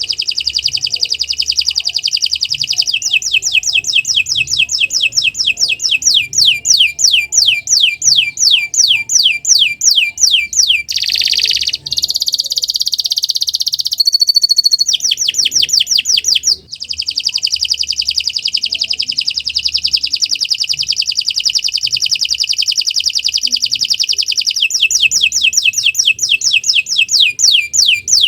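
Domestic canary singing a long continuous song. Fast rolling trills alternate with runs of quick down-slurred notes, about four a second. A harsher, buzzy passage comes near the middle.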